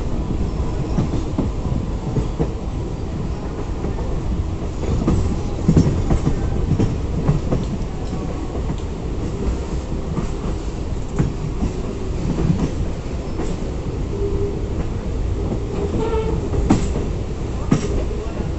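Train running on the track: a steady rumble with the wheels clattering over rail joints, and a few sharper clacks near the end.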